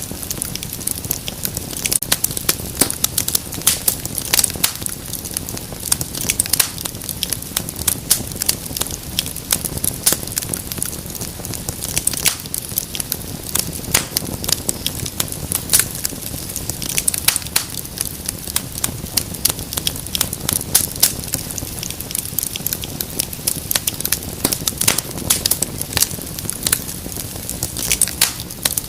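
Wood fire crackling in a fireplace: a dense stream of sharp pops and snaps over a steady low rumble of burning.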